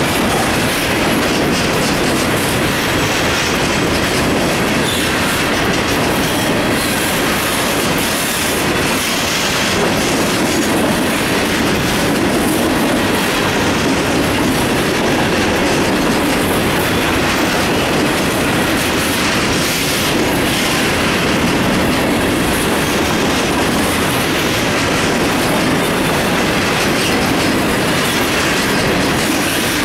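Covered hopper cars of a CSX grain train rolling past at close range: a loud, steady noise of the passing train that keeps up without a break.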